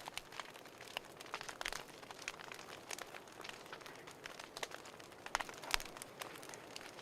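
Wood fire crackling: irregular sharp pops and snaps over a low hiss, with a louder pop about five and a half seconds in.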